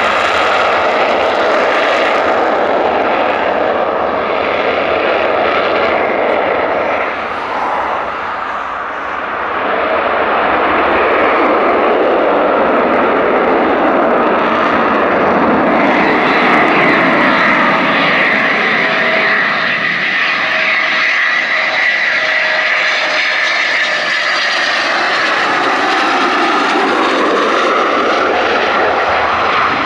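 Eurofighter Typhoon jet engines running loud and continuous, dipping briefly about eight seconds in, then a high whine comes up over the noise about halfway through.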